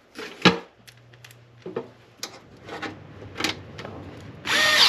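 Light clicks and knocks of plastic and metal parts being handled and snapped together while the fan grille's brackets are fitted. Near the end a loud whirring noise starts, a cordless drill running.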